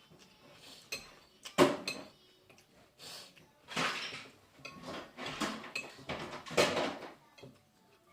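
Dishes and cutlery clattering and scraping, with a sharp knock about a second and a half in and several short rattling scrapes after.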